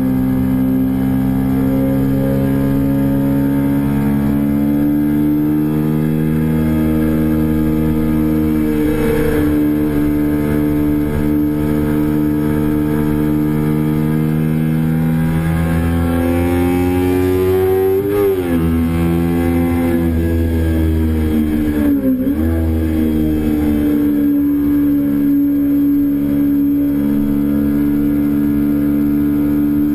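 2008 Kawasaki Ninja 250R's parallel-twin engine running hard under way on track. Its pitch climbs and falls slowly, then twice dips sharply and recovers in the second half.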